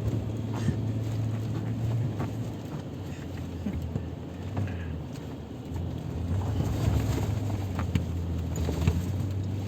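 Vehicle engine running with a steady low hum and faint scattered rattles and knocks. The engine eases off around three seconds in and picks up again around six seconds in.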